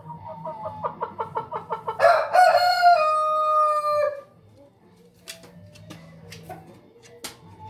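A rooster gives a quick run of clucks, then one long crow of about two seconds that sinks slightly in pitch at the end. A few sharp clicks follow.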